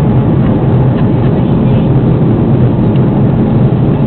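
Steady cabin noise inside an Airbus A330 airliner on its approach to land: a loud, even low rumble of the engines and rushing air.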